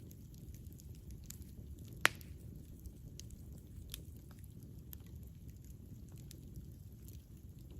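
Campfire burning: a steady low rumble with scattered crackles, and one loud sharp pop about two seconds in.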